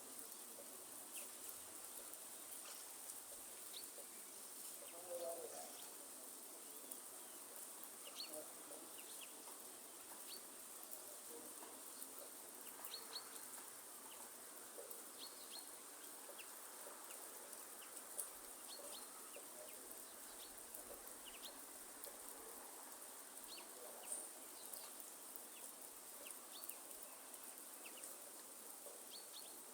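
Faint rainforest ambience: a light, even rain hiss with a steady high insect drone. Many short high bird chirps are scattered through it, and a few lower calls come about five seconds in.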